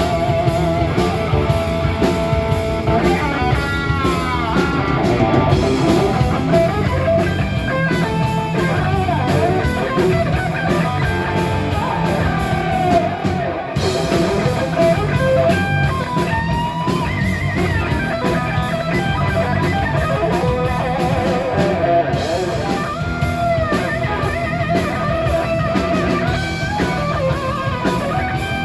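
Live rock band playing with distorted electric guitar leads over drums and bass, the guitar bending and soloing.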